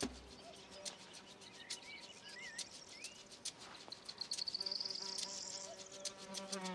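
Insects buzzing, with a pulsing high trill that swells again about two-thirds of the way through, and a few short whistled chirps in the middle.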